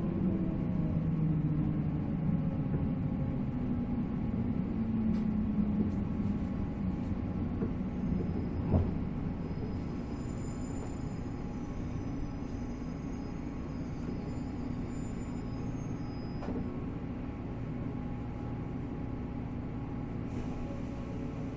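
Running sound inside a 485-series electric train: the MT54 traction motors' whine falls in pitch over the first couple of seconds, then gives way to a steady rumble of wheels on rail as the train slows toward a station stop. A single knock comes about nine seconds in, and faint high tones sound in the middle of the stretch.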